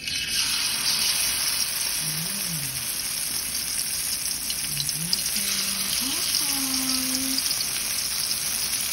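Shrimp fritter batter sizzling and crackling in hot oil in a wok. The sizzle starts suddenly as the battered shrimp go into the oil, then holds steady.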